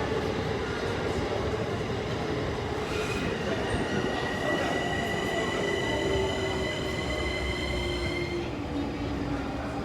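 Electric commuter train slowing at the platform: a steady rumble with whining tones from its motors and brakes that slowly fall in pitch, the higher whine stopping shortly before the end.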